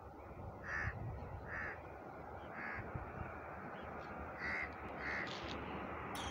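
A bird calling: five short calls spaced about a second apart, over steady background noise.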